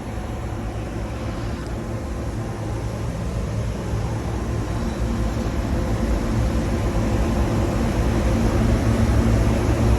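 Machinery running steadily with a low rumble and a spread of hiss, growing slowly louder.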